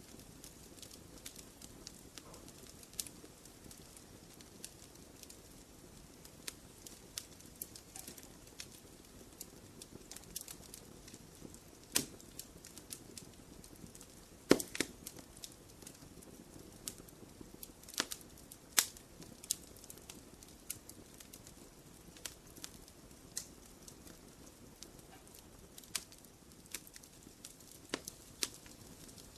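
Wood fire in a fireplace crackling, with irregular sharp pops and snaps over a faint steady hiss of the flames; the loudest pops come about halfway through.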